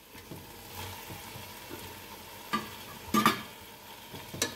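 Chicken pieces sizzling as they go into hot oil and masala in a nonstick pot, with scraping and a few sharp knocks against the pot as they are tipped in and stirred; the loudest knocks come about two and a half and three seconds in.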